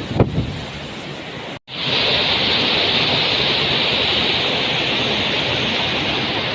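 Steady rushing noise with a thump just after the start; after a brief cut-out about a second and a half in, the rushing returns louder and hissier.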